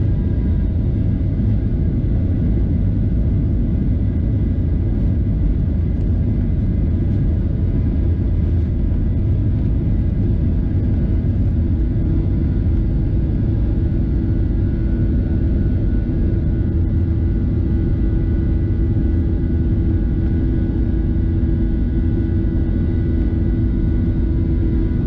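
Steady rumble of a Boeing 737-700's CFM56-7B jet engines heard from inside the cabin, with several thin steady whining tones over it; a lower steady hum joins about halfway through.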